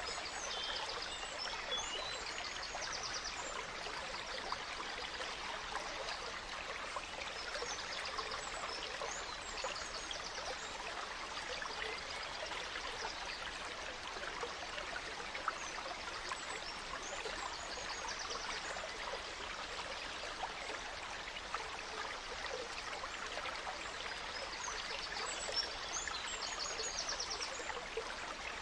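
A gentle stream babbling steadily, with songbirds chirping and trilling in short phrases over it several times.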